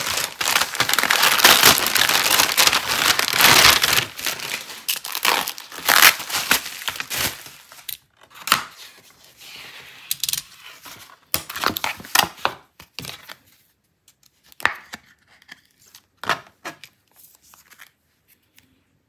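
A package being opened by hand: a few seconds of loud tearing and crinkling, then the scratch of a snap-off utility knife slitting packing tape on a cardboard mailer, with scattered rustles and sharp clicks as the cardboard is folded open and a photocard in its plastic toploader is lifted out.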